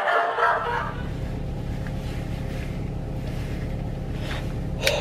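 The tail of shouting and laughter cuts off early on. A car's engine then idles, heard from inside the cabin as a steady low rumble, with a couple of sharp clicks near the end.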